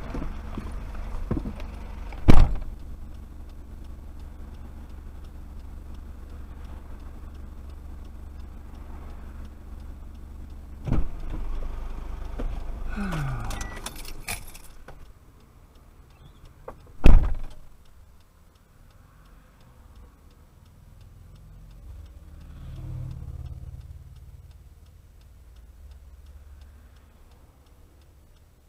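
A ute's engine running steadily, with a few sharp knocks, then winding down in pitch and stopping about 13 seconds in. A single very loud thump follows about 17 seconds in.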